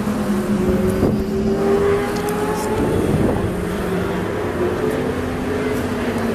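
A car engine idling steadily, its hum drifting slightly up and down in pitch.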